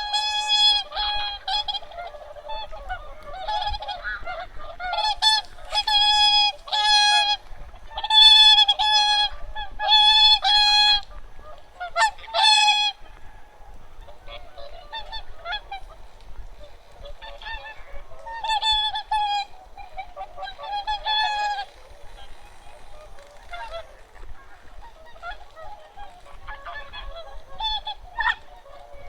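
A flock of migratory waterfowl honking: many loud, ringing calls repeated and overlapping in the first half, thinning to scattered calls after about halfway.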